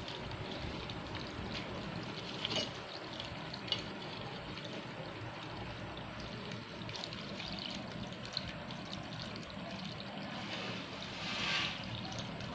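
Water from a small homemade fountain trickling and splashing steadily, briefly louder near the end.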